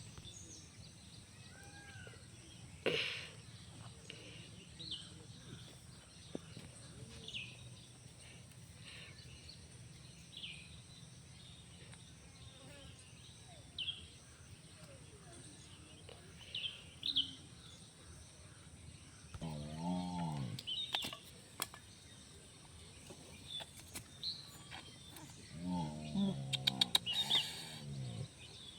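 Small birds chirping in short, scattered calls, over a steady high hiss. Twice, about twenty and twenty-six seconds in, a longer wavering call sounds, and a quick run of sharp clicks comes near the end.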